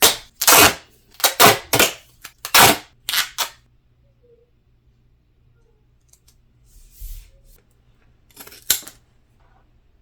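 Duct tape being pulled off the roll in a quick run of short, loud rips, about seven in the first three and a half seconds. A softer rustle follows, and two more rips come near the end.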